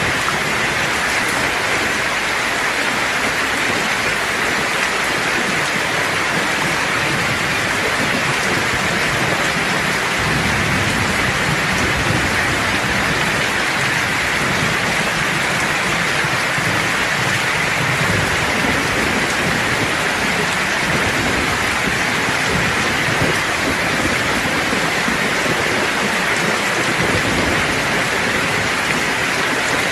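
Steady heavy rain hissing. From about ten seconds in, a long, low rumble of distant thunder builds under it and dies away near the end.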